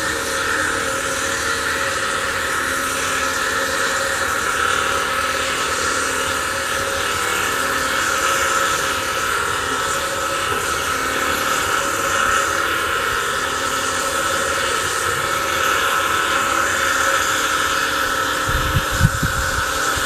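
Steady engine running noise with a constant hum, joined by a few irregular low rumbles near the end.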